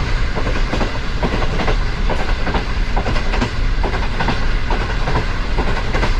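Train running over track: a steady low rumble with a rapid, uneven run of wheel clacks over the rails.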